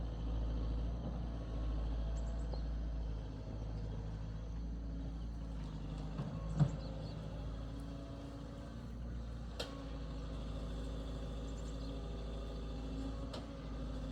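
A heavy engine running steadily at low speed, with a sharp knock a little past halfway and a couple of fainter clicks later.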